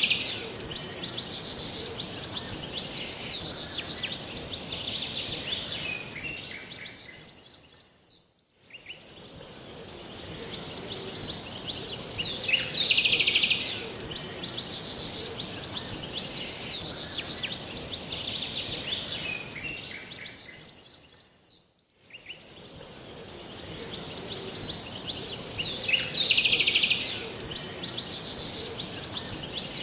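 Birds chirping and singing over a steady high hiss, with a louder burst of chirps about every 13 seconds. The same short recording repeats, fading nearly out and back in twice.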